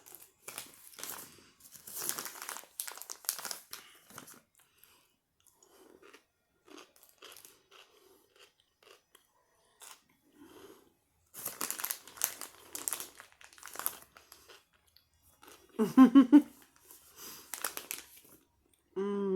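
Close-up chewing of crunchy spicy pickles and cheese: wet crunching and smacking in irregular bouts, quieter for a few seconds in the middle. A short hummed "mm" comes about three-quarters of the way through.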